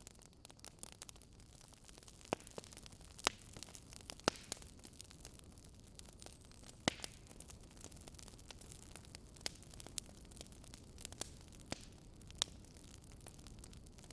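Wood fire crackling: irregular sharp pops and snaps, a few of them loud, over a soft steady hiss.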